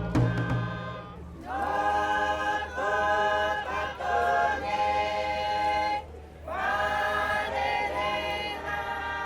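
Soundtrack music of a choir singing long held chords in two phrases, each one sliding up into the chord. A drumbeat with a deep bass dies away in the first second.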